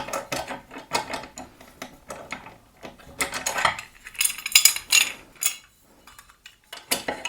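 Metal parts of a pillar drill's parallel stop clinking and scraping as they are slid into the grooves and tightened. It is a run of short clicks and rattles, busiest about four to five and a half seconds in.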